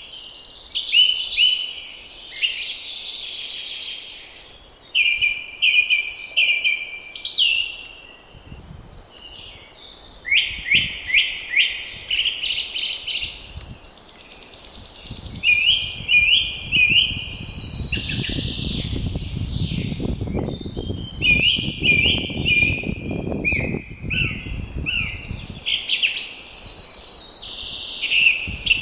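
Songbirds singing in spring, with repeated chirped and trilled phrases from several birds. A gust of wind rumbles for several seconds in the middle.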